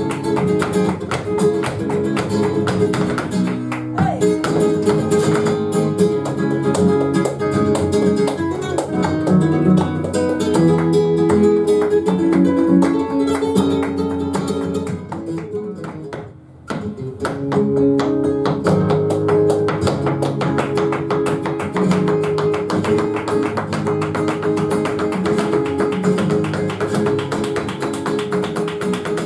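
Flamenco guitar playing a petenera, with rapid sharp percussive taps over it, typical of a dancer's footwork. The music drops away briefly about halfway through, then picks up again.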